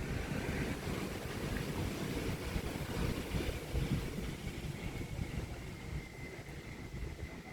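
Wind buffeting the microphone, an uneven low rumble. A faint thin high tone runs through the last couple of seconds.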